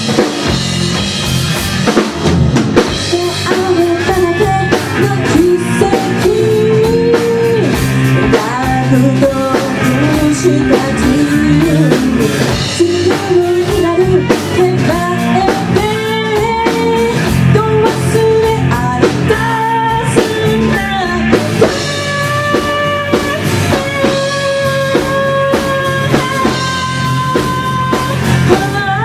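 Live rock band playing a song: drum kit keeping a steady beat under guitar, with a singing voice carrying the melody.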